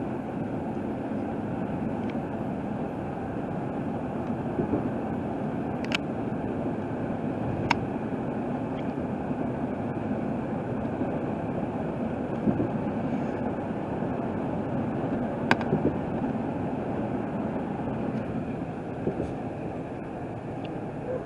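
Steady road and engine noise heard inside a vehicle's cabin at highway speed, with a few sharp clicks, about three in all.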